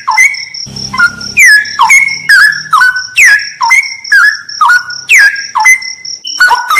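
Straw-headed bulbul (cucak rawa) singing loud, clear whistled phrases: quick falling glides that settle onto short held notes, about two a second. A steady, fast-pulsing high tone runs behind the song.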